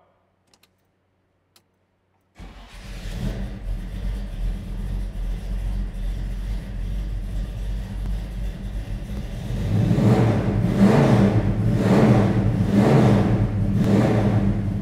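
A 1970 Pontiac GTO's 455 cubic inch V8 firing up on a cold start, catching suddenly about two seconds in after a few faint clicks, then idling steadily. From about ten seconds in it is revved in several short blips before settling back to idle.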